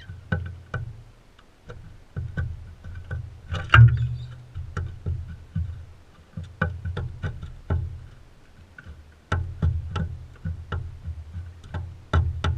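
A parrot's beak pecking and knocking at seed on a feeder right by the microphone: irregular sharp taps with dull thumps, one louder knock about four seconds in.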